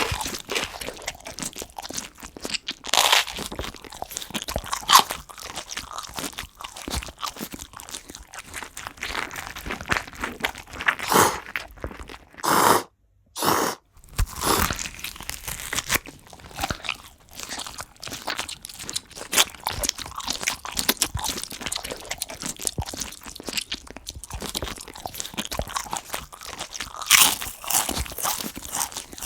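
A praying mantis chewing a cockroach: a steady run of small crunching, crackling clicks as its mouthparts break through the shell, with a few louder crunches. The sound drops out briefly twice near the middle.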